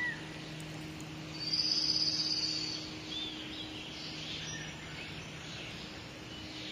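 Outdoor background: a few short bird chirps and one high, fast trill lasting about a second, starting about a second and a half in, over a faint steady low hum.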